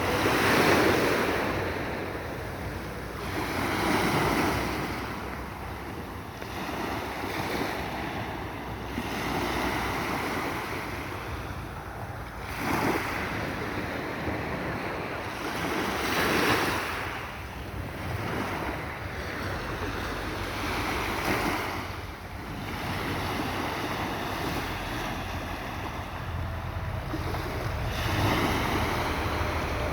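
Sea waves washing in and breaking, the surf rising and falling every few seconds, with wind buffeting the microphone.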